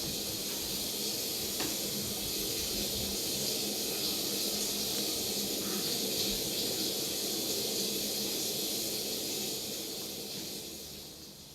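Steady hiss that fades away near the end.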